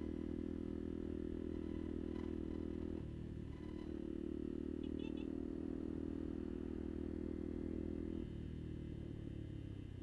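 Kuba Black Cat motorcycle engine running steadily while being ridden. The note drops briefly about three seconds in and again near the end, as the throttle eases.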